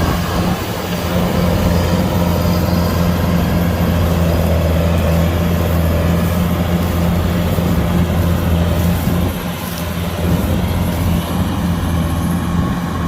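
Kubota DC-105X combine harvester's diesel engine and threshing gear running steadily while harvesting rice, a low drone that dips briefly about ten seconds in.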